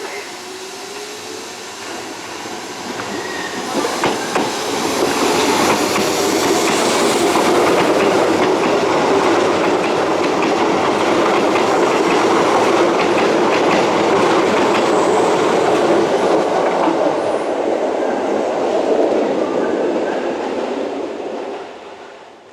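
Electric train running through the station on the rails, wheels clattering over rail joints in a rapid run of ticks. It builds over the first few seconds, runs loud and steady, then falls away suddenly near the end.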